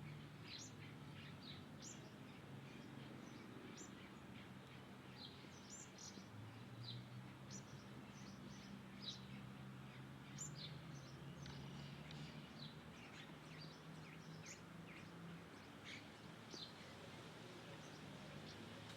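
Many small birds chirping faintly, short high chirps coming every fraction of a second throughout, over a faint low steady hum.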